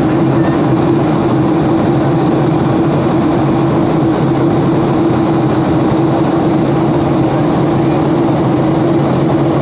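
Airplane engine drone: a loud, unchanging rushing noise with a constant mid-pitched hum and a steady high hiss.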